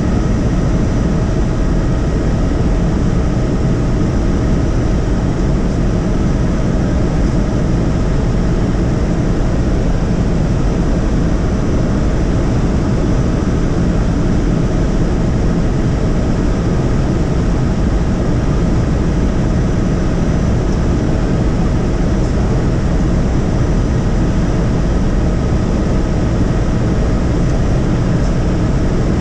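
Helicopter in flight heard from inside the cabin: a loud, steady drone of engine and rotor with a faint constant whine over a heavy low rumble.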